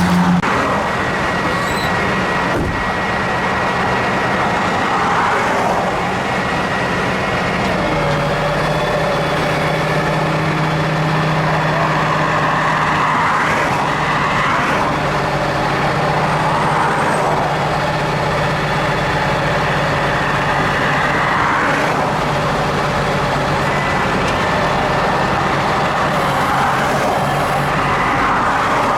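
Tow truck engine running steadily, its note rising and holding about eight seconds in as the truck works to pull a car out of a ditch. Vehicles pass on the road several times, each swelling and fading.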